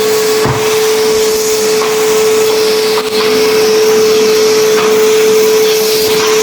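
Henry tub vacuum cleaner running steadily with a constant motor whine, its nozzle sucking up builders' dust and debris from a tiled floor, with a few faint knocks.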